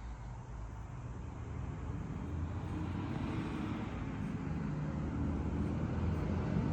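Motor hum of a Rema four-station grinding machine running, a steady low drone that grows louder from about two seconds in.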